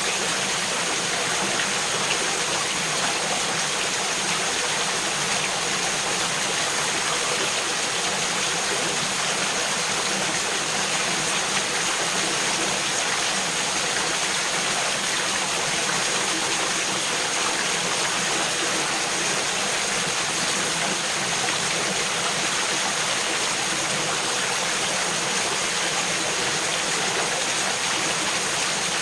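Mountain stream flowing steadily over rocks and small waterfalls, a constant babbling rush of water.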